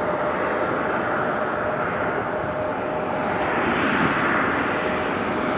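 Jet airliner engine noise at an airport: a steady rushing hum with a faint steady whine, growing slightly louder about four seconds in.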